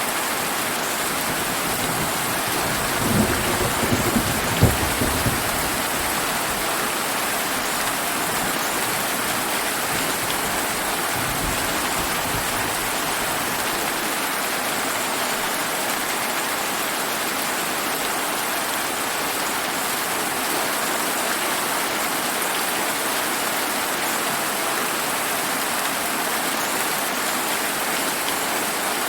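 Steady heavy rain with a short rumble of thunder about three seconds in, ending around five seconds in. A fainter low rumble comes near twelve seconds.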